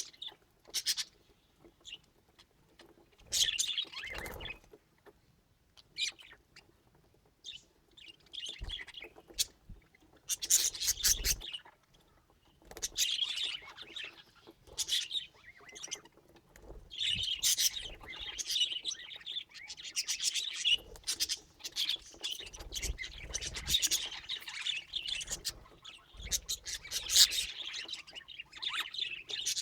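Budgerigar chirping and chattering in short bursts, sparse at first and nearly continuous from about halfway through.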